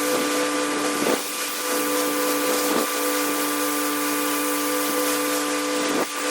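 Pressure washer running steadily, a motor's hum under the hiss of the high-pressure water spray, with brief dips about a second in and near the end.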